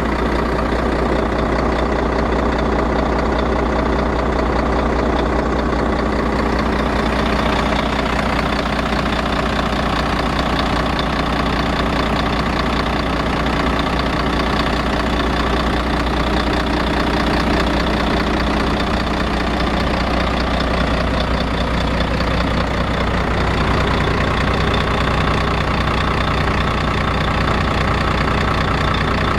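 Volvo D12C 12-litre straight-six diesel of a Volvo FH12 truck idling steadily on its freshly repaired injectors.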